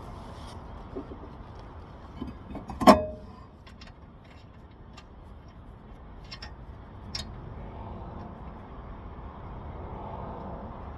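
A single loud metallic clank that rings briefly about three seconds in, among lighter taps and clicks of metal brake parts and hand tools being handled during a rear brake reassembly, over a steady low rumble.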